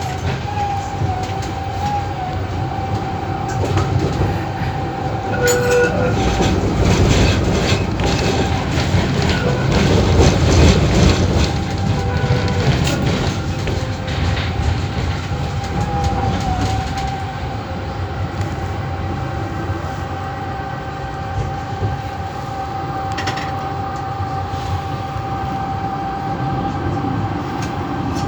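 VBZ Tram 2000 running along the track with a steady whine. It clatters over rail joints or points in the middle, where it is loudest, then settles back to a smoother run.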